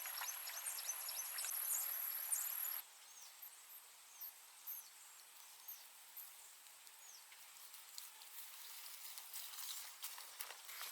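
Forest birdsong and insects. A high, steady insect drone under dense bird chirps cuts off abruptly about three seconds in. Scattered short, falling bird calls follow over quiet background.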